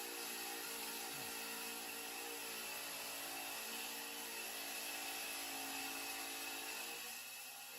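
A motor running steadily, a low hum with a high whine over it.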